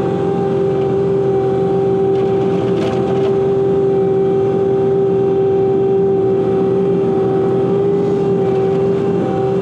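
Bobcat T86 compact track loader's diesel engine running steadily, with a steady whine over a low rumble, heard from inside the cab.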